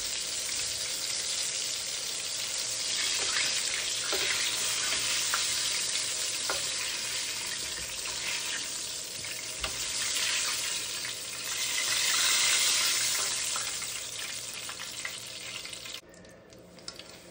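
Cornmeal-coated fish pieces frying in hot oil: a steady, dense sizzle with a few light clicks. The sizzle drops away suddenly about a second before the end.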